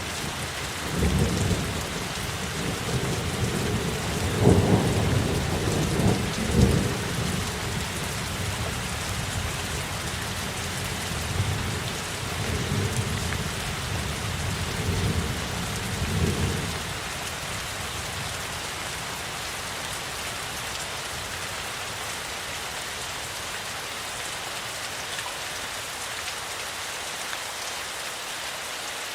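Steady rain falling, with a long roll of thunder rumbling through the first half. The thunder is loudest a few seconds in and dies away a little past halfway, leaving the rain alone.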